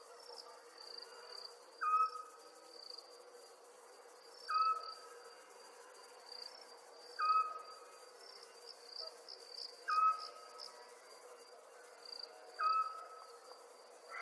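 Night chorus of crickets chirping steadily and high, with a short whistled call repeating five times, evenly, about every two and a half seconds, louder than the crickets.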